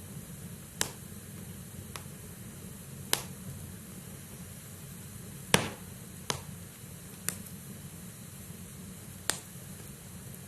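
Wood fire burning in a fireplace: a steady low rumble of flames with sharp pops and cracks from the burning logs at irregular intervals, the loudest a little past halfway.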